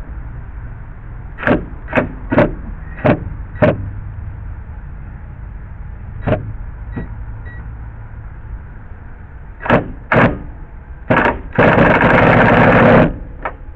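A series of sharp knocks and clicks, then one short burst of about a second and a half from a power screw gun backing a screw out of a deck board, run in a short burst at medium power.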